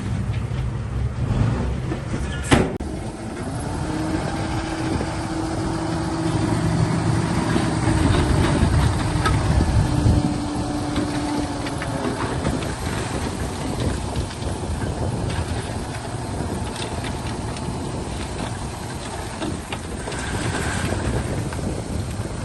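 Heavy diesel earthmoving machinery working, its engine running with a low rumble. There is a sharp knock about two and a half seconds in, and a steady whine from about three seconds in to twelve seconds in.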